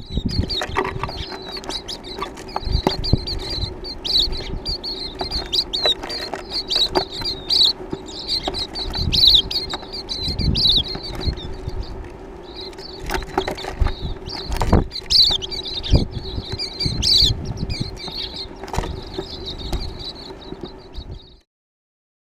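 A flock of small birds chirping and twittering continuously, with many short thumps and a steady low hum underneath. It all cuts off suddenly near the end.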